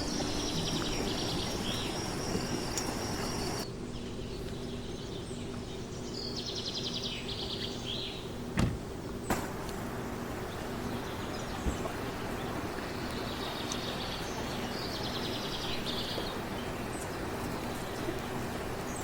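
A small bird twittering in short rapid bursts, three times, over a steady background noise, with a single sharp knock about halfway through.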